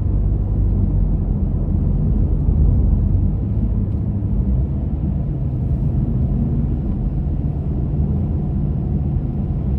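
Steady low rumble of a car being driven, heard from inside the cabin: engine and tyre noise at a constant pace.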